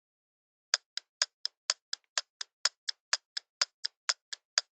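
Countdown timer sound effect: clock-like ticks at about four a second, alternating louder and softer, starting about three quarters of a second in.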